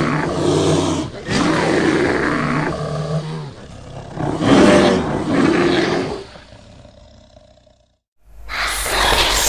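Deep, loud growling roars, several in a row, fading away; after a brief gap a loud rushing whoosh starts near the end.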